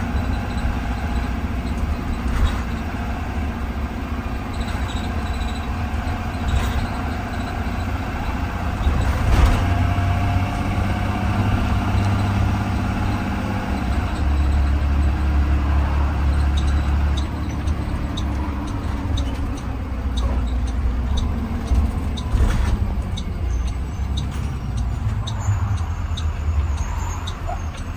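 2020 Blue Bird Vision school bus on the move, heard from inside: steady engine and road rumble, with the engine note shifting as it goes.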